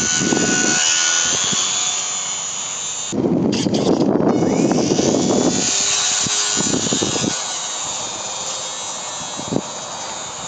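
Small electric RC plane motor whining, its pitch slowly drifting, under heavy wind buffeting the microphone in irregular low gusts, strongest from about three to five and a half seconds in.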